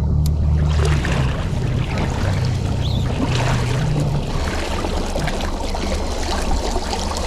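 Motorboat engine running with water rushing and splashing along the hull. The engine's low drone is strongest for the first four seconds or so, then eases off.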